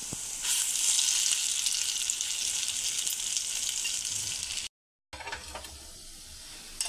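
Ground-coconut fritters (nadia bara) sizzling as they shallow-fry in oil in a non-stick frying pan. The sizzle is loudest for the first few seconds, cuts out for a moment about two-thirds of the way through, and comes back quieter.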